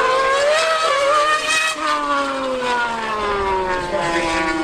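High-revving racing engine at full throttle, its pitch climbing for the first couple of seconds, then dropping steadily as the vehicle goes past.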